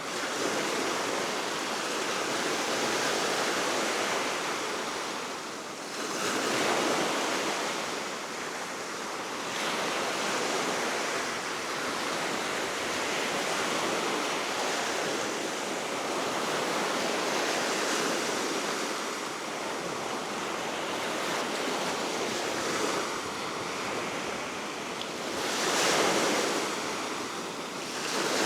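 Baltic Sea waves breaking on the shore below a cliff, a steady wash of surf that swells every few seconds as each wave comes in, with steady wind mixed in.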